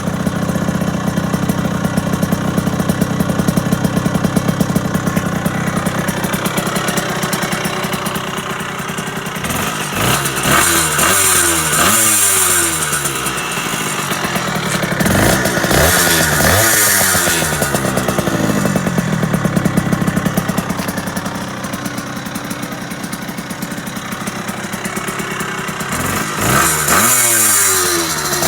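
Tuned Zündapp moped two-stroke with an Athena 70cc kit and a 36 mm expansion-chamber exhaust, running at a steady note for the first several seconds. It then pulls up in pitch repeatedly in quick climbing steps that drop back at each step, as when accelerating hard through the gears. This happens in three bursts, about ten seconds in, around the middle and near the end.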